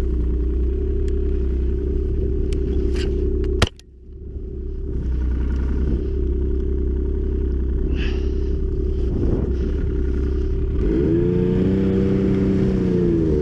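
Snowmobile engine running steadily, with a single sharp crack about four seconds in, after which the sound briefly drops away and then returns. Near the end the engine's pitch rises and falls as it revs.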